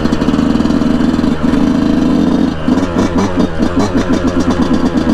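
Yamaha YZ125 two-stroke dirt bike engine running under way at a steady throttle. About halfway through, its note breaks into a rapid, even stutter.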